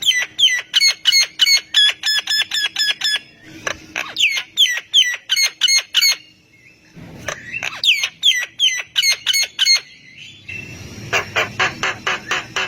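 Javan myna calling: fast runs of repeated sharp, chattering notes, about five a second, in four bouts with short pauses between them; the last bout is harsher.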